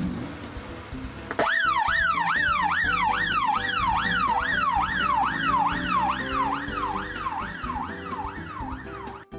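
Emergency vehicle siren in a fast yelp, its pitch sweeping up and down about twice a second. It starts abruptly after a brief whoosh about a second and a half in and cuts off suddenly near the end, over quiet background music.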